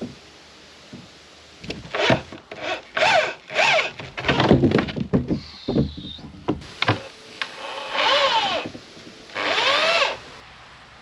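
Wood rubbing and scraping in a series of irregular strokes, several with a squeak that rises and falls in pitch, mixed with a few knocks.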